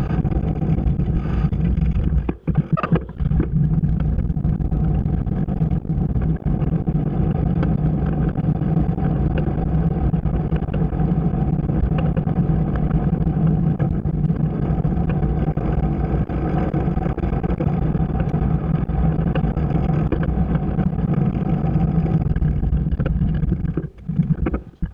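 Motorcycle engine running steadily at cruising speed, with a low wind rumble. It dips briefly about two and a half seconds in, then cuts off near the end.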